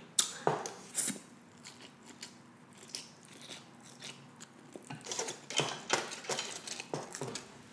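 Close-miked chewing of a mouthful of noodles: soft wet mouth clicks and smacks, sparse at first and busier in the last few seconds.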